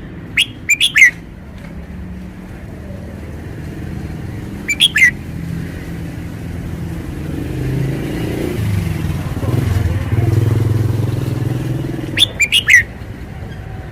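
Red-whiskered bulbul singing three short phrases of quick whistled notes, several seconds apart. Under them a low rumble swells and fades in the middle.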